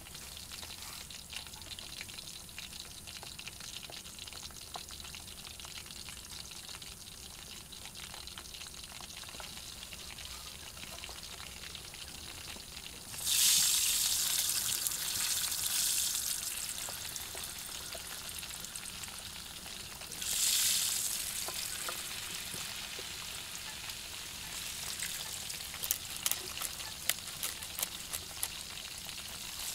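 Chicken legs frying in deep oil in a pan on a portable gas stove: a steady crackling sizzle that flares up loudly twice, about 13 and 20 seconds in, and spits with sharp pops near the end.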